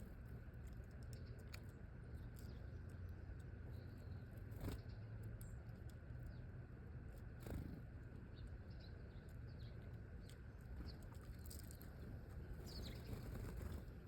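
Faint small-bird chirps, mostly in a cluster near the end, over a steady low outdoor rumble, with two sharp clicks in the middle.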